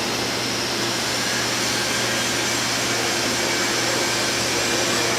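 Steady rushing air noise with a low hum running under it, unchanging throughout.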